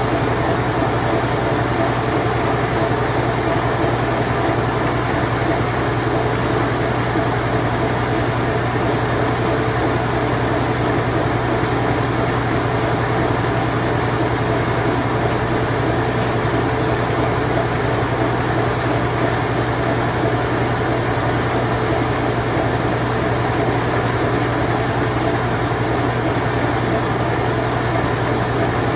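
Vintage Whirlpool Imperial Clean Touch top-load washing machine in its spin cycle: a steady motor hum with the whir and rumble of the spinning drum, unchanging throughout.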